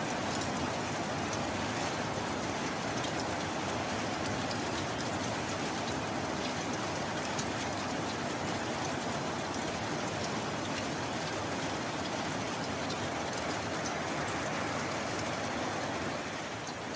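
Steady heavy rain: a dense, even hiss of rainfall with scattered individual drop ticks.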